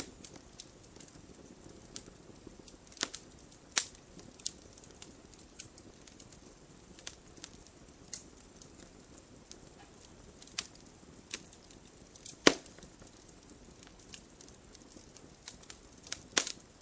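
Wood fire crackling: irregular sharp pops and snaps over a soft low hiss, the loudest pop about twelve seconds in.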